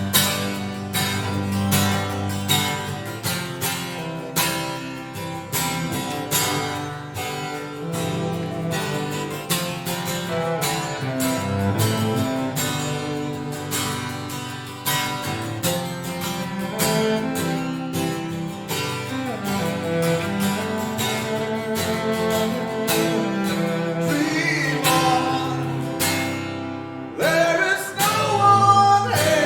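Acoustic guitar and cello playing together: plucked guitar notes and chords over sustained bowed cello lines, with a brief lull just before a new phrase near the end.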